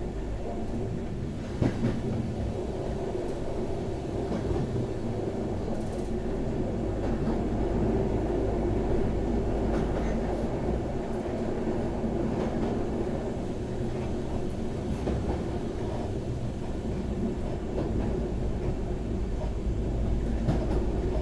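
Steady running noise heard inside a Pesa 218Mc diesel railcar travelling at speed, with occasional clicks from the wheels on the track.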